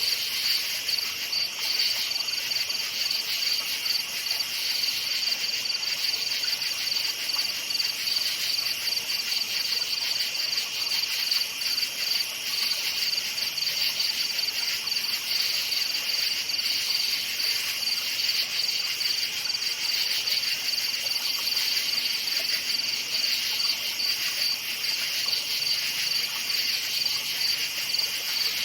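Crickets chirping in a steady chorus, a rapid, continuous high-pitched trilling that never lets up.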